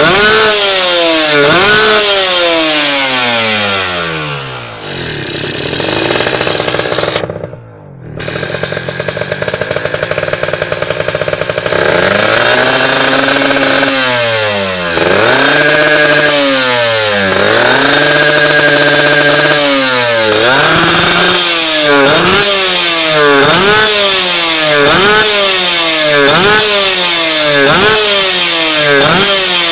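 Kawasaki Ninja motorcycle engine through a D2T big-volume aftermarket exhaust, being blipped on the throttle again and again. It falls back to idle and nearly dies away about a quarter of the way in, then is revved again, first with a few held revs and then with quick blips about once a second.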